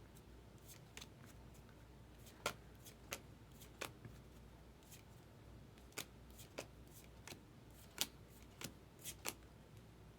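Baseball trading cards being flipped through by hand, each card giving a short, quiet snap at an irregular pace of about one every half second to a second.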